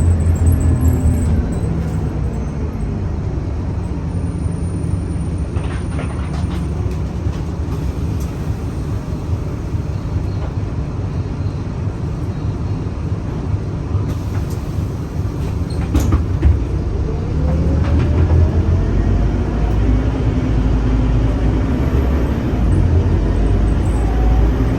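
Scania K310UA city bus's diesel engine running, with a few sharp clicks along the way. From about 17 seconds in, the engine note rises and grows louder as the bus accelerates.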